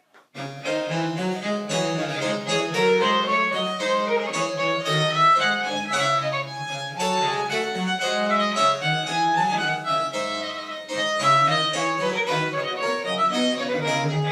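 French Baroque chamber music played live: a violin melody over harpsichord and a low bowed bass line, starting about half a second in.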